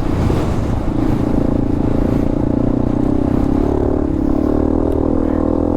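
Dirt bike engine running steadily at low, even revs, with some rattle and clatter.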